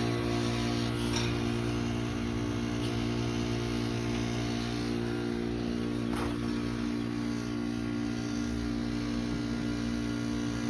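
Trane XR13 heat pump outdoor unit humming steadily during a defrost cycle, a constant electrical and mechanical drone with no change.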